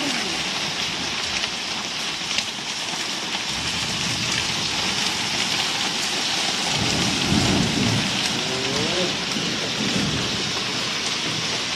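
Heavy downpour of rain and hail hissing steadily on the street. A deep low rumble swells in the middle and is loudest about seven to eight seconds in.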